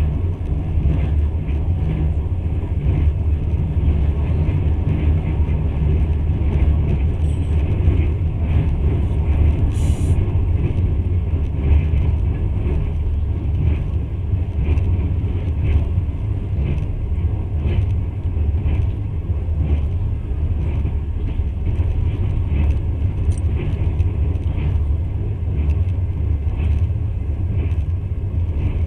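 Passenger train running at speed, heard from inside the carriage: a steady low rumble with faint, irregular clicks and one sharper click about ten seconds in.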